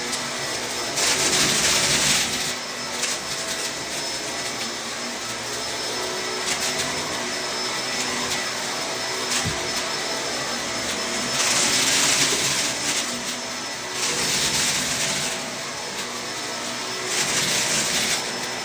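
Vacuum cleaner running steadily with a motor whine. It swells several times into a louder, higher hiss for a second or two at a time.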